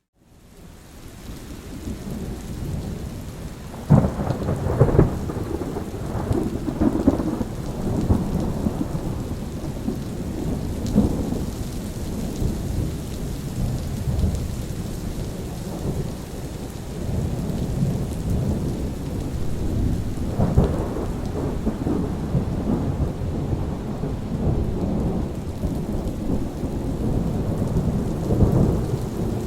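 Steady rain falling with rolling thunder rumbling throughout. The sound swells up from a brief silence at the start, a sharp thunderclap breaks about four seconds in, and another loud peal rolls in about two-thirds of the way through.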